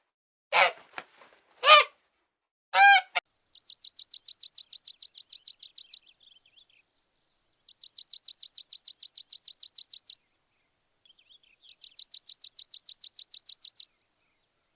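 Three short honking calls, then three trains of rapid high-pitched chirps at about ten a second, each about two and a half seconds long with pauses between.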